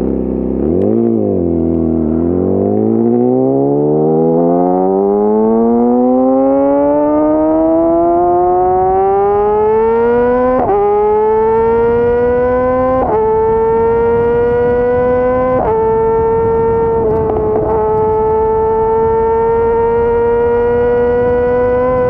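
Yamaha YZF-R6 inline-four sport bike engine accelerating hard, its pitch climbing steadily for several seconds. It then shifts up quickly three times, about two and a half seconds apart, and settles at high, nearly steady revs.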